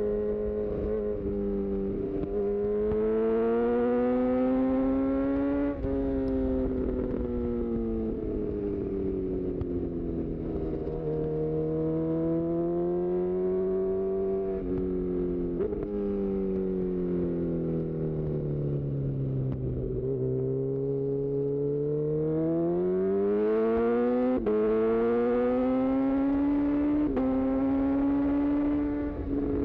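2018 Honda CB1000R's inline-four engine through a full-system aftermarket exhaust, its pitch rising under acceleration and falling as the throttle rolls off, over and over on a flowing road. There are a few sudden steps in pitch at gear changes, notably one about 24 seconds in.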